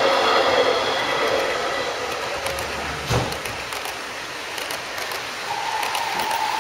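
Model trains running on a layout, a steady whir of small motors and wheels on track. There is a single knock about three seconds in, and a steady higher tone joins near the end.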